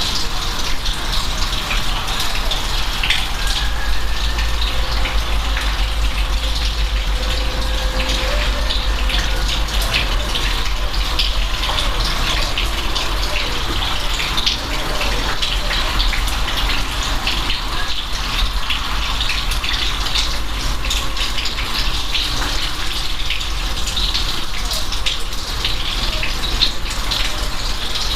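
Steady rain, with a dense patter of individual drops over a continuous hiss and a low rumble underneath.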